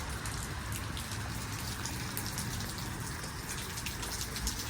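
Steady rain falling, with scattered sharp taps of individual drops.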